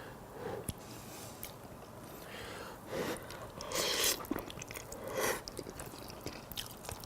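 Close-miked eating of hot spaghetti: wet chewing and slurping mouth noises with small clicks. There are louder breathy rushes about three, four and five seconds in.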